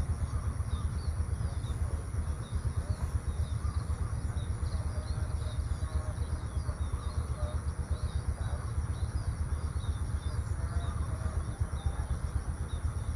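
Small birds chirping in quick, scattered calls over a steady low rumble, with a constant high-pitched whine above.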